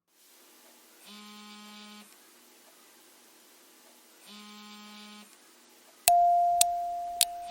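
Electronic beep and buzzer tones: two quiet one-second buzzes about three seconds apart, then a loud, steady high beep starting about six seconds in, with sharp ticks over it.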